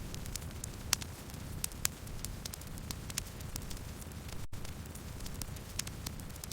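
Campfire burning: a steady low rumble of flames with irregular sharp crackles and pops of burning wood. The sound drops out for an instant about four and a half seconds in.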